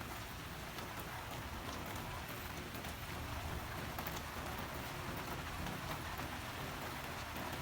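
Rain falling steadily, a constant hiss peppered with the ticks of individual drops striking a surface.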